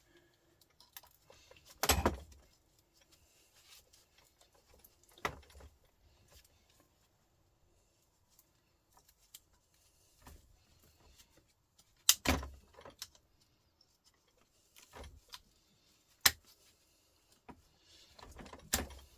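Scattered metal clinks and knocks from a Volvo truck starter motor being taken apart by hand with snips, about eight separate sharp hits with quiet gaps between them.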